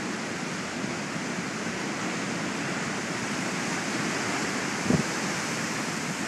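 Heavy storm surf breaking and rushing up a beach in a steady roar, with a short thump about five seconds in.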